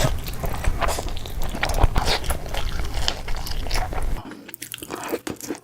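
Close-miked eating: crunchy bites and chewing, a dense run of crunches. About four seconds in the low rumble drops away and the crunches become sparser and more separate.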